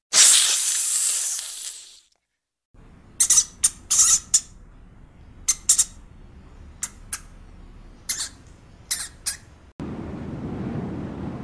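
Spectacled cobra hissing, loud at first and fading out over about two seconds. After a short silence, a rat feeding gives a string of short, sharp, high sounds. Near the end a steady low rush sets in.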